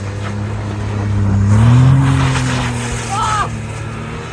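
Car engine running, revving up about one and a half seconds in and then easing back down. A short high call or squeal comes just past the middle.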